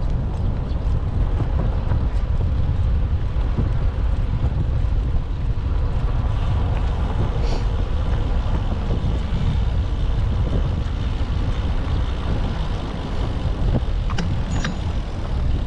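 Steady low wind rumble on a microphone carried on a moving bicycle, over street and traffic noise, with a couple of faint clicks.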